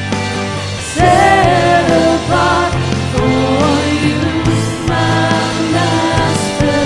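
Live Christian worship music: a band with singers performing a praise song. The singing and band come in louder about a second in.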